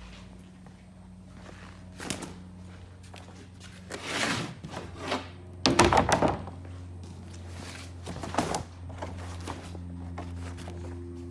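Irregular thunks and rustling handling noises, loudest as a quick cluster of knocks about six seconds in, over a steady low hum.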